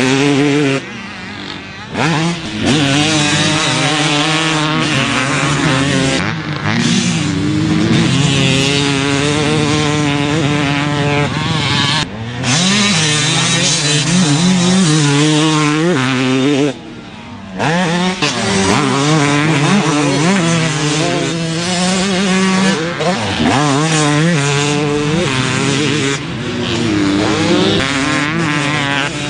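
2021 Yamaha YZ250 single-cylinder two-stroke motocross engine revving hard and shifting as the bike is ridden, its pitch climbing and dropping over and over. The throttle is chopped briefly about a second in, again near the middle, and once more a few seconds later.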